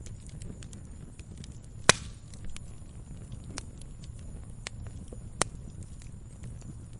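Campfire crackling: scattered small snaps over a low rumble of burning wood, with a loud pop about two seconds in and another later on.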